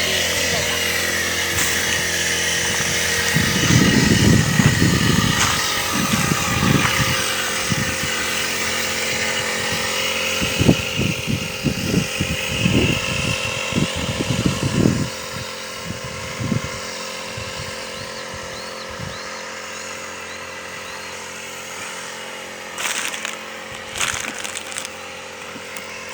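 Brush cutter's small petrol engine running steadily, with louder, uneven spells in the first half before settling quieter; two short noises near the end.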